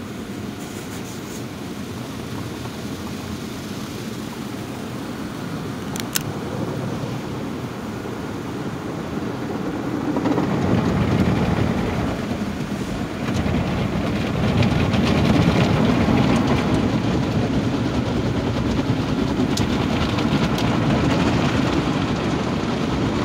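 Automatic car wash running over a car: a steady rushing of water spray and machinery, with a sharp click about six seconds in. It grows louder about ten seconds in and again a few seconds later.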